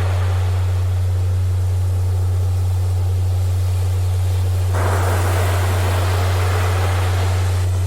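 Recorded ocean surf, a steady wash of breaking waves that swells louder a little over halfway through, laid over a constant low hum-like tone from a Rife-frequency track.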